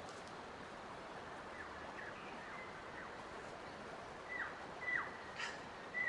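A bird calling a series of short notes that each drop sharply in pitch, repeating about twice a second and growing louder near the end. Behind it is a steady hiss of running water or wind.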